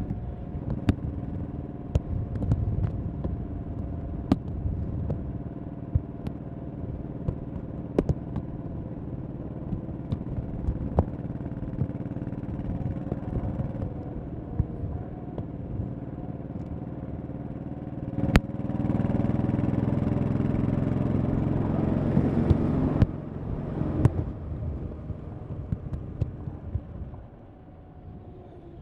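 1100cc V-twin motorcycle engine running while the bike is ridden at road speed. About two-thirds of the way in it gets louder for several seconds, then drops back, and it eases off quieter near the end.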